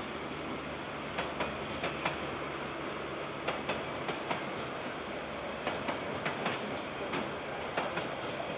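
KiwiRail freight train wagons rolling past, heard through a security camera's microphone: a steady rumble with irregular sharp clacks from the wheels, several coming in close pairs.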